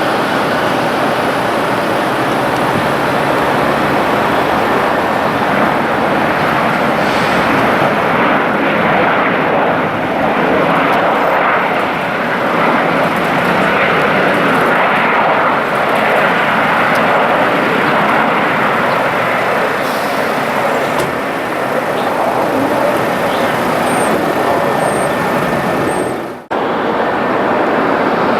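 Jet airliner's engines, loud and steady, with a brief dropout about 26 seconds in.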